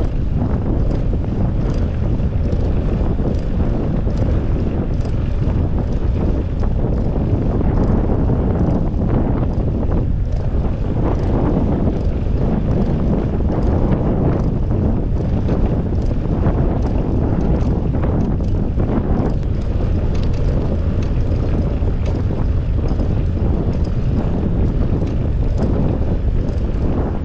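Wind buffeting the microphone of a camera riding along on a moving bicycle: a steady low rumble with faint ticks above it.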